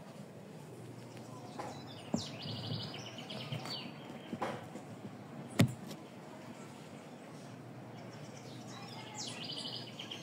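A bird calls twice, each call a quick upward note followed by a fast chattering trill, over a steady low hum. A few sharp knocks sound in between, the loudest about halfway through.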